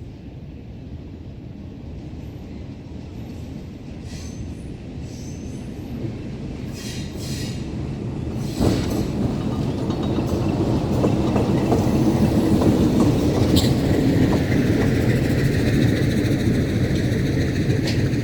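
Metre-gauge train drawing closer, its rumble growing steadily louder, with a sharp clack a little past halfway and wheels squealing in the last few seconds.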